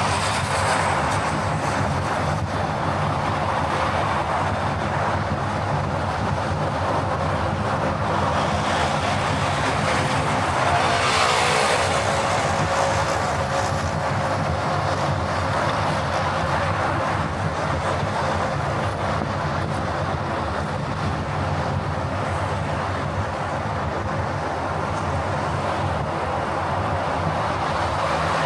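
Steady driving noise of a car on the move, tyres and engine, with a louder swell about eleven seconds in.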